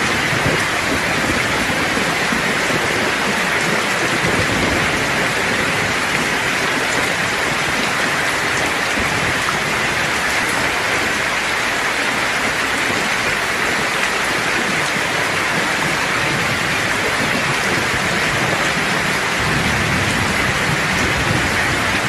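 Steady rain falling in a thunderstorm, with low rumbles of thunder near the start and again near the end.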